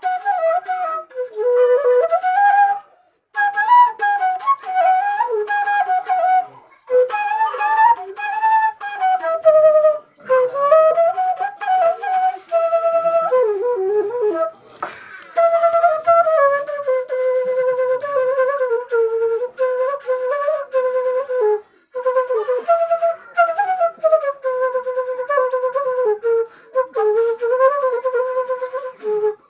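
Seruling, an Indonesian bamboo flute, playing a solo melody in flowing phrases with short pauses between them.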